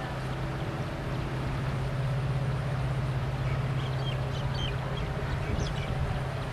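Distant train passing: a steady low rumble and drone. Short bird calls sound over it from about three and a half seconds in.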